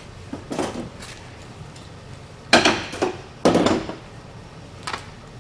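Four separate metal clanks and knocks of tools being handled, each ringing briefly, the two loudest about halfway through.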